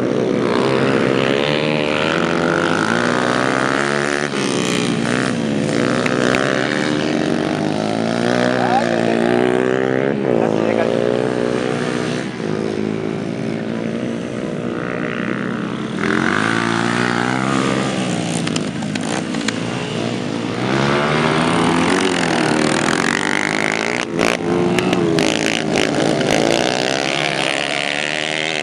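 Several racing dirt-track motorcycles running at full throttle, their engine pitch rising and falling over and over as they accelerate, shift and go past.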